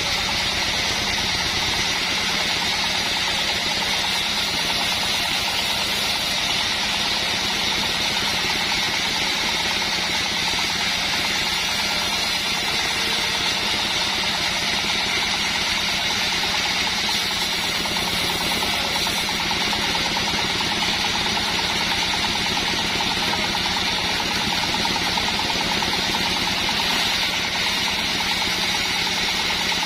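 Engine-driven band sawmill running steadily, its engine note and the band blade's high hiss holding constant throughout.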